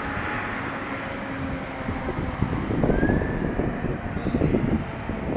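Strong storm wind gusting across the microphone, a steady rush with rumbling surges. A distant siren rises and falls faintly about three seconds in.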